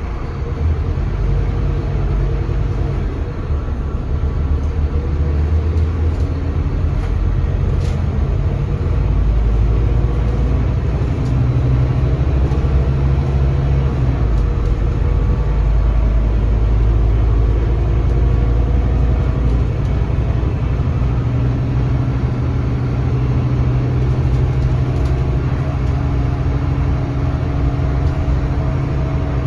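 Scania K320CB bus's DC9 five-cylinder diesel engine running under way, heard on board with road rumble; the engine note shifts and grows louder about nine seconds in as the bus pulls harder.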